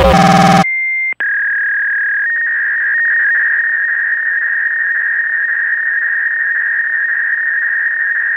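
A loud, dense pitched sound cuts off about half a second in. A single steady high-pitched electronic tone over a faint hiss replaces it, steps in pitch twice in the first couple of seconds, then holds.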